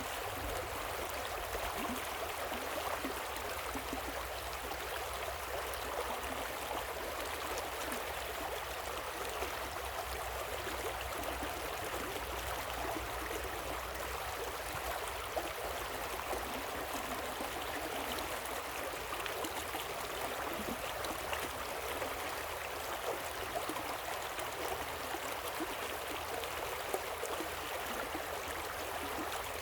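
Running water of a waterfall and river: a steady, even rushing, flecked with many small splashes, over a low rumble.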